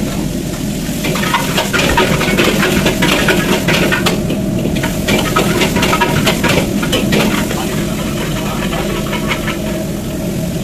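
Quick clinks and scrapes of a metal ladle stirring in a wok, over a steady low hum. The clatter is thickest in the middle and eases off near the end.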